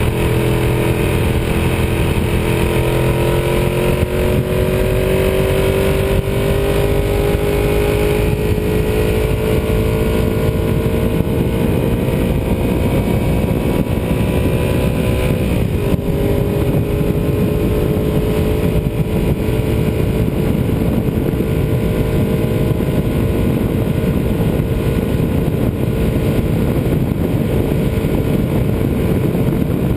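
Ducati 748R's L-twin engine pulling under way, its note rising steadily for about fifteen seconds, breaking briefly at a gear change about halfway and then carrying on slightly lower and steadier, over a constant rush of wind and road noise.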